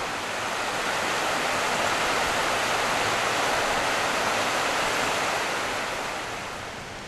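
Rushing river water, a steady hiss that eases off somewhat near the end.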